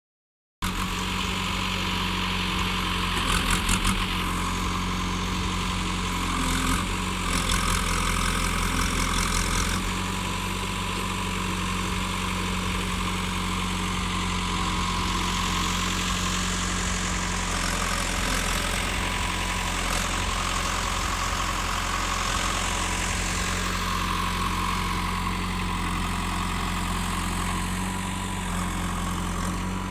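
Mahindra tractor's diesel engine running steadily, with two brief louder, rougher stretches, one about three seconds in and another from about seven to ten seconds in.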